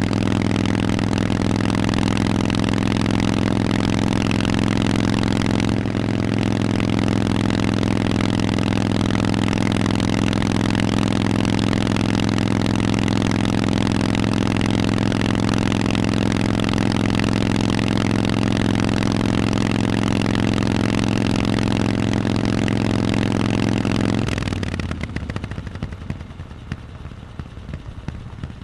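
Harley-Davidson Forty-Eight's air-cooled 1200 cc V-twin running loud through Vance & Hines exhausts, holding a steady, unchanging engine speed. About 24 seconds in the engine sound drops away sharply as it is shut off, leaving a much quieter, irregular sound.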